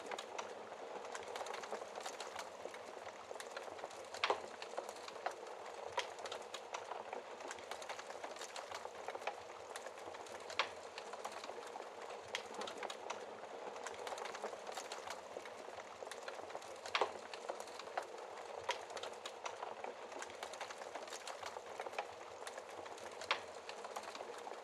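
Wood fire crackling in a fireplace: a steady hiss of burning with irregular sharp pops and snaps, a few louder pops standing out.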